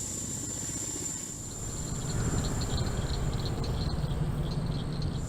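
SB-1 Defiant coaxial-rotor helicopter in flight: a fast, low rotor beat with a high steady whine, growing louder about two seconds in.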